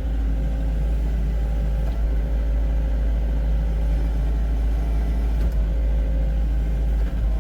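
Excavator diesel engine running steadily during grading work: an unbroken low rumble with a faint steady whine above it.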